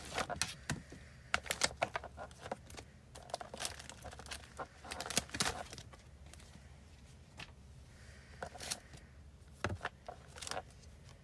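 Postcards and other paper goods being handled and slipped into plastic file sleeves: irregular crinkling, rustling and light clicks.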